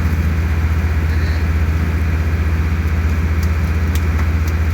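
Passenger ferry's diesel engine running steadily under way, a deep drone with a fast, even throb.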